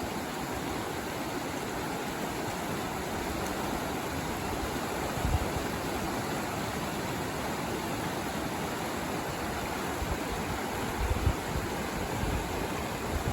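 River water rushing steadily, an even hiss of flowing water, with a few brief low thumps about five seconds in and again around eleven seconds.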